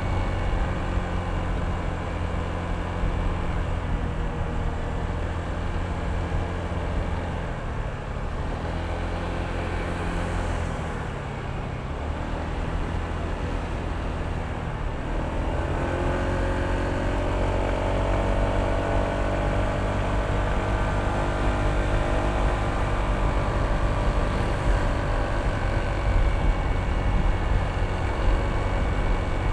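Honda ADV160 scooter's single-cylinder engine running on the move. Its note eases off a little about a third of the way in, then climbs again from about halfway as it accelerates.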